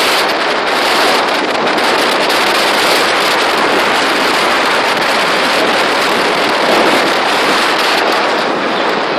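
Loud, steady rushing noise of wind buffeting the microphone together with water rushing past a moving boat, with no distinct engine note or separate knocks.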